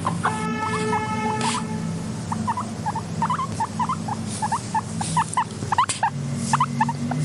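Guinea pigs squeaking: a quick run of short rising chirps, with one longer held call lasting about a second near the start. A low steady drone runs underneath.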